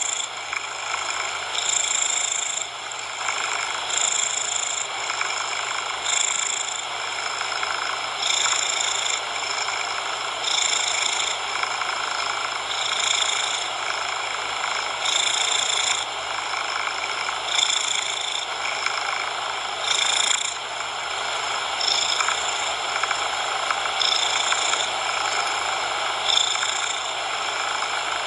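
A cat purring in a steady rhythm, one in-and-out breath cycle about every two seconds, over a continuous hiss of coloured noise.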